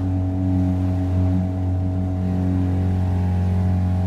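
Car engine running steadily, heard from inside the cabin as a low, even hum.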